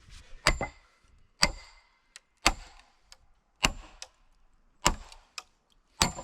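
Six sharp metallic strikes, evenly spaced a little over a second apart, each with a brief ringing after it.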